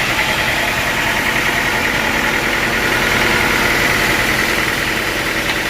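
Sawmill machinery running steadily: a continuous mechanical drone with a steady high whine over it.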